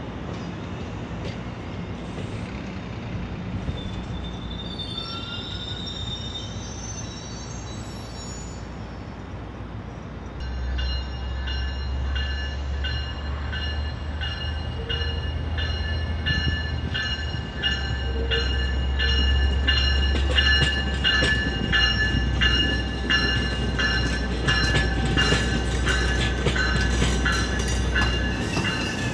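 An exo commuter train approaching and passing close by, its diesel rumble starting about ten seconds in and growing louder, with a high ringing tone that pulses in an even rhythm over it. Birds chirp faintly before the train arrives.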